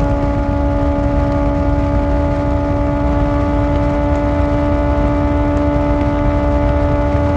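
Kawasaki ZX-4R's inline-four engine through an Akrapovic exhaust, running at constant revs with an unchanging steady pitch, over a low rumble of wind and road noise.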